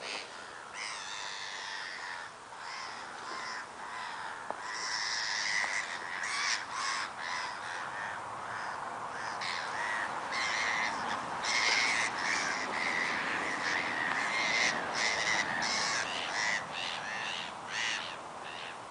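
Birds calling, many short calls overlapping, growing busier and louder through the middle of the stretch before easing near the end.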